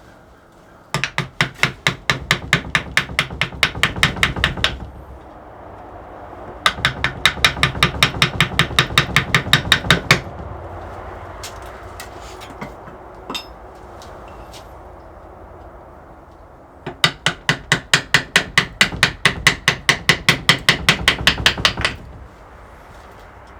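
Rapid, even tapping strikes on wood, about seven a second, in three runs of several seconds each with short pauses between.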